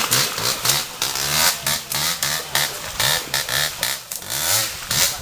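Dirt bike engine revved in short repeated bursts, its pitch rising and falling about two to three times a second.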